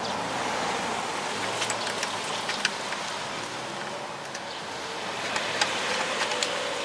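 Steady hiss of background noise with a few faint, light clicks of bolts being handled and set in place on the engine.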